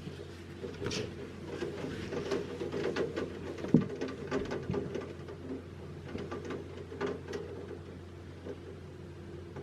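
Light rain: irregular raindrops ticking and pattering on a hard surface close to the microphone, with one louder knock about four seconds in.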